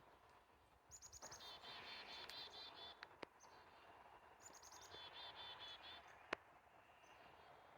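A songbird singing the same short phrase twice, about three and a half seconds apart: a high buzzy note, then a quick run of lower repeated chirps. It is faint, with a few sharp clicks in between, the loudest near the end.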